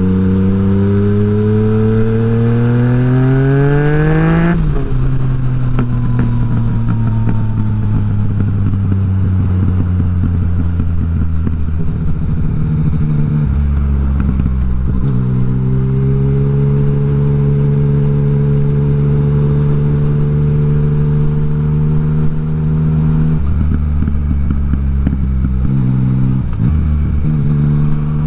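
Yamaha MT-09's inline three-cylinder engine through an Akrapovic exhaust with the dB killer removed, pulling up through the revs for about four seconds before the pitch drops abruptly. It then runs on at a steady pitch, climbs again about fifteen seconds in and holds there, easing off and wavering near the end.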